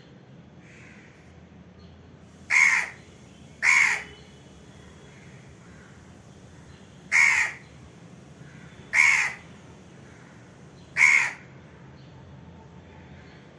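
An Indian crow cawing: five short, harsh caws, each about half a second long, in an uneven rhythm, two close together near the start, then two more a couple of seconds apart, and a last one about eleven seconds in.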